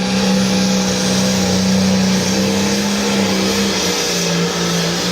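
International 1466 limited pro stock pulling tractor's diesel engine running hard under load as it pulls the sled, a loud steady engine note that sags slightly a couple of times and settles a little lower near the end.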